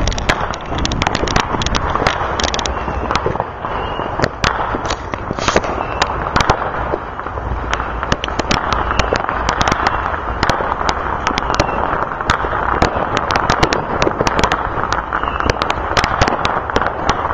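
Many fireworks and firecrackers going off around a neighbourhood: a constant crackling wash with frequent sharp pops and bangs at irregular moments.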